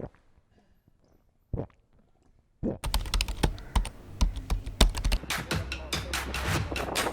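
Two single sharp clicks in near silence, then about two and a half seconds in a fast run of sharp clicking taps over a low steady beat, like percussive music.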